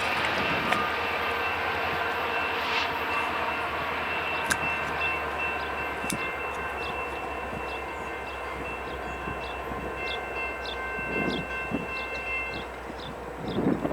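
Freight train rolling past with a steady low rumble and a thin, steady high squeal, slowly fading. In the second half there is a light, regular clicking, about two to three a second.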